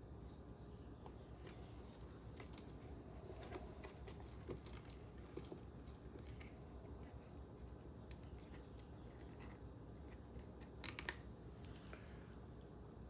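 Faint hand-work sounds of zip ties being handled and pulled around an RC car's ESC: scattered small plastic clicks, with a short run of louder clicks about eleven seconds in.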